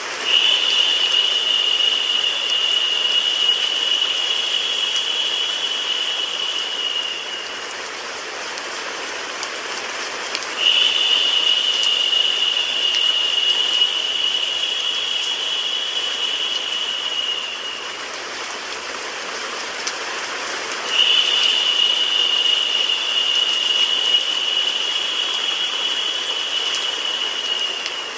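Steady rain noise. Three times, a high, hissing whine comes in sharply over it, holds for about seven seconds and fades. It repeats at even spacing of about ten seconds, like a loop.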